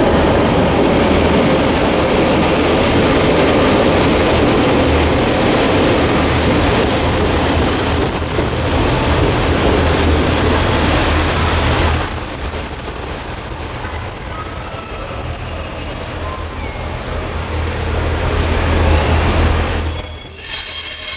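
Class 143 Pacer diesel multiple unit passing close by and running into the platform: a steady low engine hum under the noise of wheels on rail. A long high-pitched wheel squeal starts about halfway through and lasts several seconds, with shorter squeals before it and another near the end.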